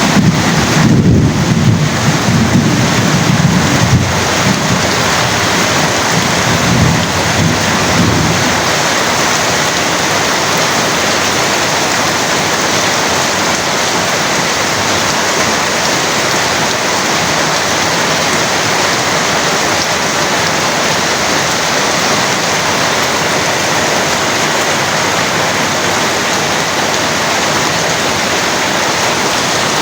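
Heavy rain falling steadily, with a low rumble of thunder over the first several seconds that dies away about eight seconds in.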